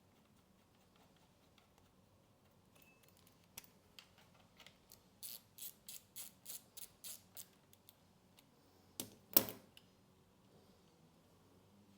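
A run of about ten quick, evenly spaced mechanical clicks over about two seconds, then a single loud knock.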